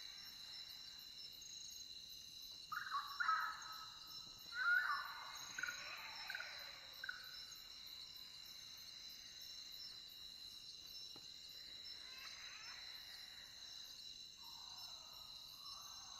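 Night insect chorus, crickets trilling steadily at a high pitch, with a run of short bird calls about three to seven seconds in and a few more near the end.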